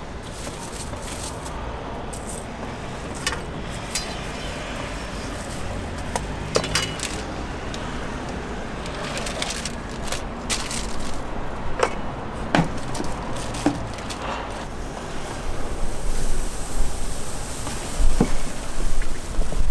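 Scattered light clinks and taps over a steady background of street noise, getting busier and louder near the end.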